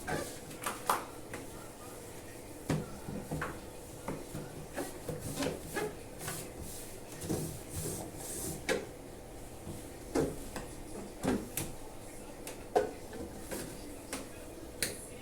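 Household objects being handled: scattered knocks, clicks and rubbing, each one short and separate, about one every second or so.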